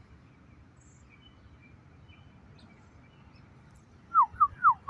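Backyard birds calling: faint scattered chirps over a low background, then about four seconds in, four short loud calls that fall in pitch, from birds kept off the seed by a cat below.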